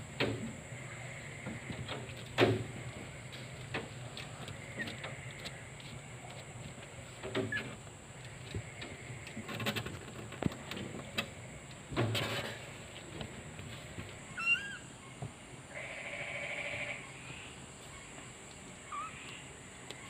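Kitten mewing: short squeaky calls about two-thirds of the way through, then one longer mew, among scattered knocks and bumps.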